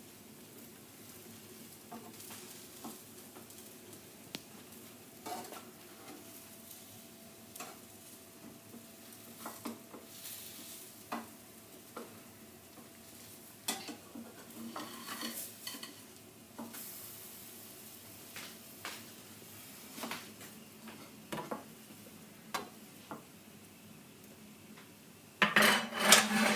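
A buttered grilled cheese sandwich frying in a frying pan with a faint sizzle, while a spatula taps and scrapes against the pan now and then. A louder clatter comes near the end.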